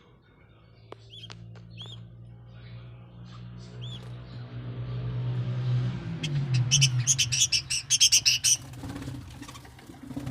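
Budgerigars chirping: scattered short calls at first, then a loud, rapid run of chatter about six seconds in that stops near the end. Under it a low hum builds and then fades out around the middle.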